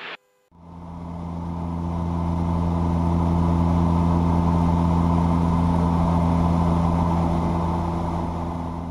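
Steady drone of the DHC-6 Twin Otter's turboprop engines and propellers in the climb, a low hum with a few steady overtones. It swells in about half a second in and starts to fade near the end.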